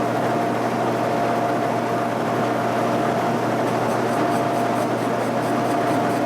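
Shop machine tool running steadily, a constant whine over an even hiss.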